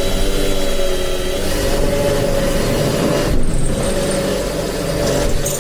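Power drill running under load as it drives a screw, with a short let-up a little past halfway before it runs on.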